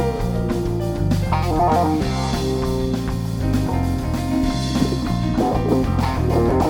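Live rock band playing an instrumental passage: electric guitar over bass guitar and drum kit, with a bent guitar note sliding down at the start.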